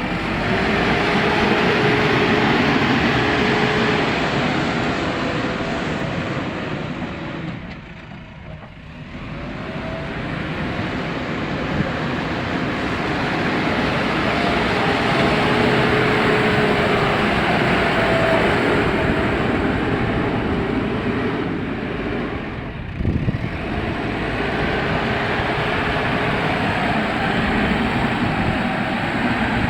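JCB 3DX backhoe loader's diesel engine working under load, revving up and down so its pitch rises and falls. It drops back briefly about eight seconds in and again around twenty-three seconds.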